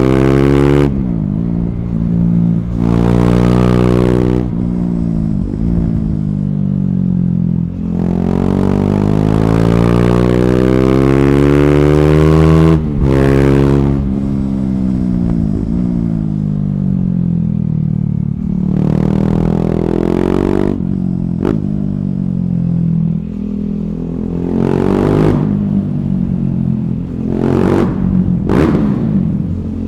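KTM 390 Duke's single-cylinder engine through an Akrapovic slip-on exhaust with the catalytic converter removed, revving up and down repeatedly as the bike accelerates and slows, with several short loud bursts of exhaust noise along the way.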